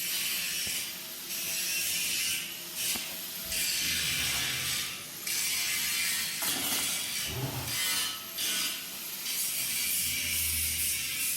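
Repeated rasping strokes of a tool working steel, each about a second long with short breaks between them.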